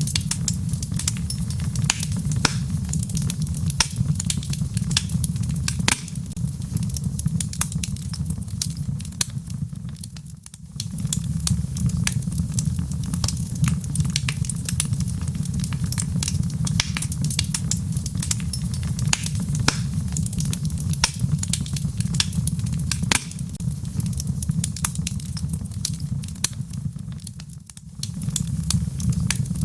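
Wood logs burning in a fireplace: a steady low rumble with frequent sharp crackles and pops. The sound dips briefly twice, about a third of the way in and near the end.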